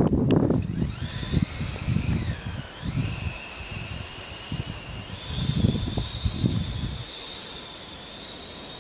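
High whine of an RC snowcat's two brushless 2838 2800KV motors, rising and falling in pitch with the throttle in the first few seconds, then holding steady and stepping up about five seconds in. Irregular low rumbling runs underneath, loudest at the start.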